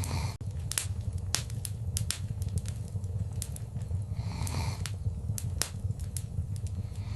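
Wood fire in a fireplace crackling, with sharp pops of burning logs scattered over a steady low rumble of the flames. A brief softer rushing flare about four seconds in.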